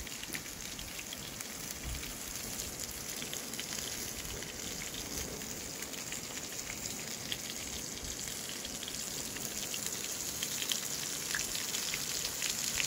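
Steak and potatoes frying in a pan on a gas camping stove: a steady sizzle with fine crackles.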